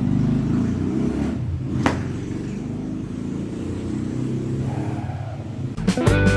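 A motor vehicle engine running with a low, steady rumble, with one sharp click about two seconds in.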